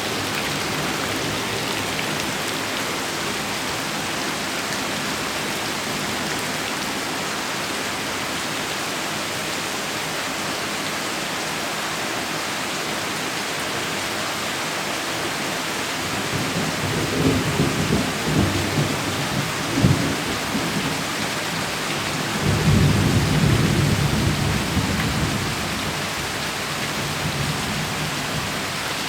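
Heavy rain falling steadily. About sixteen seconds in, thunder rumbles with a few sharp cracks, and a second, louder rumble follows a few seconds later and fades out.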